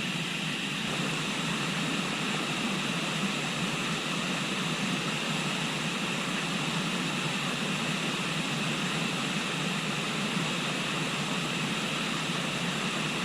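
Steady rushing of a river: an even hiss of flowing water that does not change.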